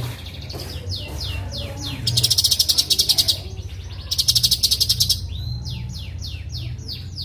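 Cucak cungkok (light-vented bulbul) singing a clear, rapid song. Runs of quick falling whistled notes are broken twice by loud, very fast buzzing trills. A steady low hum runs underneath.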